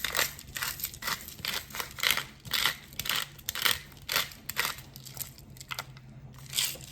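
Black pepper being put on food: a run of short crunching strokes, about two a second, with a pause and one more stroke near the end.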